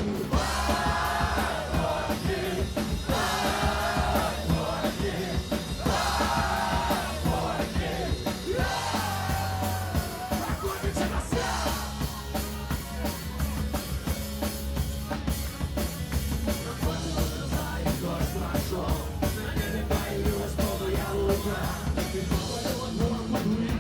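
Live punk rock band playing, with drums, bass and guitars. About four shouted vocal phrases come in the first dozen seconds, then the band plays on without words.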